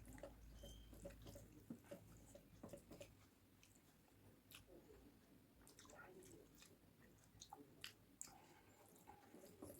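Faint close-up chewing of a rice-and-curry meal: soft wet mouth smacks and small clicks scattered irregularly, with a few sharper ones in the second half.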